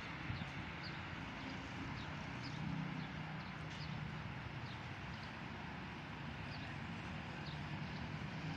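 Outdoor ambience: small birds give short, high chirps about once a second over a steady low rumble.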